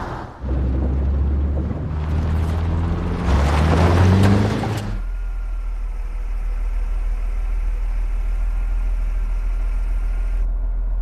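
Car engine revving and accelerating, its pitch stepping up in jumps, which gives way suddenly about five seconds in to a steady low hum.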